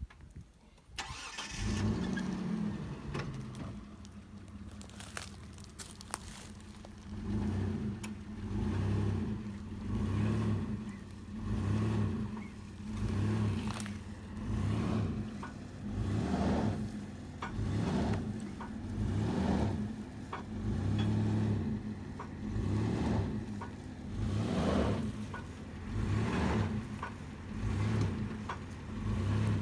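Engine of a towing vehicle pulling on a bogged old truck, coming up about a second in and then surging and easing in a regular rhythm, about once every second and a half, as it strains against a load that will not budge.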